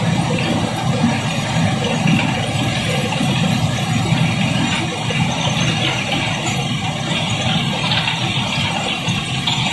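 Heavy machinery engine running steadily while loads of cobblestones clatter and tumble during barge unloading.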